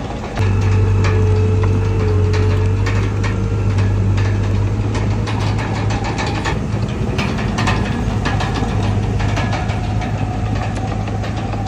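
Heavy diesel engine of earth-moving machinery running steadily, with scattered clanks and rattles throughout. The sound jumps louder about half a second in and then holds.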